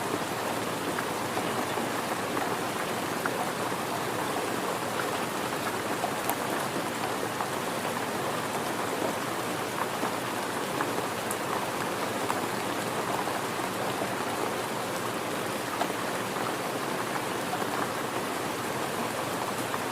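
Steady rain falling on a surface, an even hiss scattered with the small ticks of individual drops.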